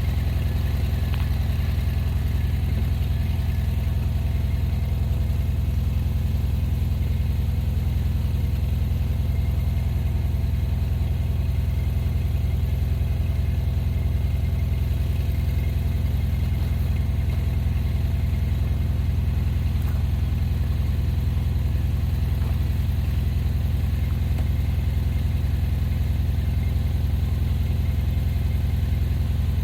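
A vehicle engine running steadily at a constant speed, with a low, unchanging drone and no revving.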